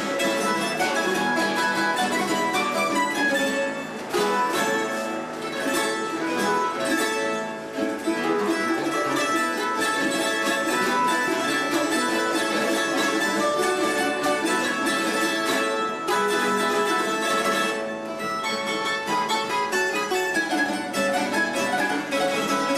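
A string trio of bandurria, laúd and guitar plays the instrumental introduction to a Cádiz carnival tango, with quick plucked melody notes over strummed chords.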